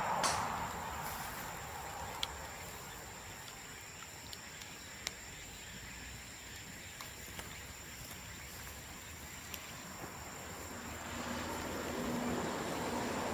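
Bamboo bonfire burning, with a steady low rush of flames and sharp pops and crackles every second or two as the burning bamboo splits.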